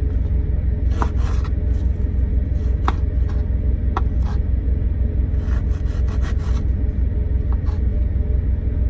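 Steady low drone of an idling truck engine, pulsing evenly, with a few light clinks and scrapes of cookware being handled, the first about a second in and the last near the end.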